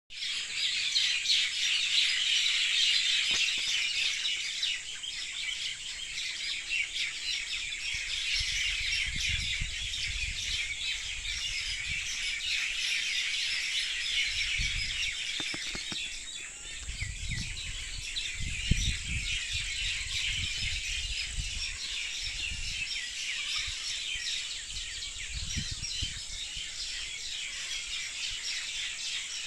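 Many small birds chirping and twittering together in a dense, continuous chorus, over a steady high-pitched tone. From about a third of the way in, irregular low rumbles come and go.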